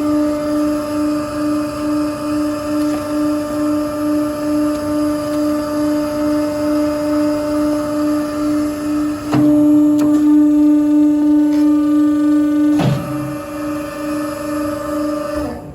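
An electric machine motor running with a steady pitched hum. It gets louder for a few seconds past the middle and stops abruptly at the end.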